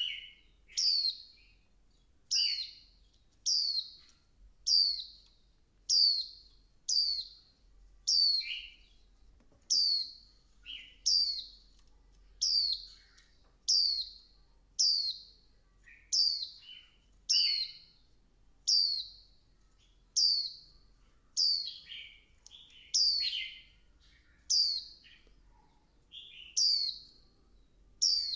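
Female white-eye (vành khuyên) calling: short, high, downward-sweeping notes repeated about once a second, some with a lower second note. This is the female call that keepers play to rouse males into song.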